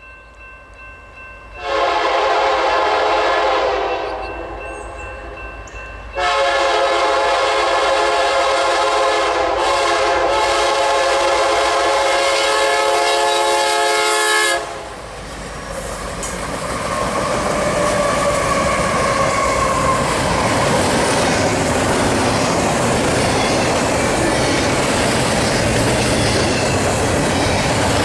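Union Pacific locomotive air horn sounding two blasts, a shorter one of about two seconds and then a long one of about eight seconds. It is followed by the steady rumble and wheel clatter of the double-stack intermodal train rolling past.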